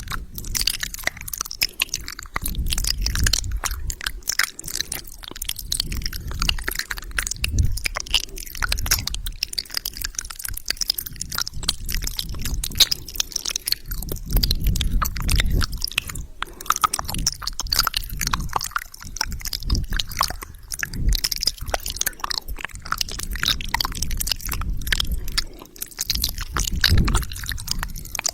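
Close-miked wet mouth sounds: rapid tongue clicks, smacks and saliva crackles, over swells of low breathy rumble.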